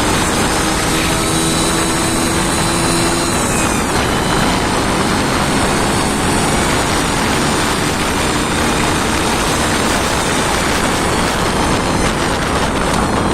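An engine running loudly and steadily on a test run.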